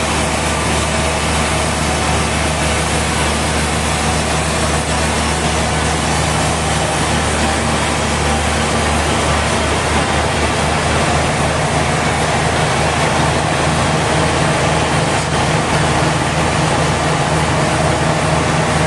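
Sawmill machinery running steadily: a low engine-like hum under a constant hiss, the hum's pitch pattern shifting slightly about halfway through.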